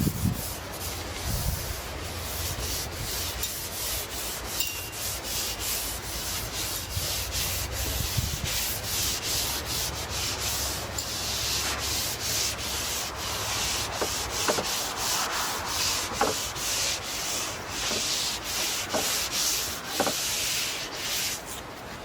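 A brush working oil into European larch planks: the bristles sweep back and forth over the wood in a steady run of short brushing strokes, about two a second.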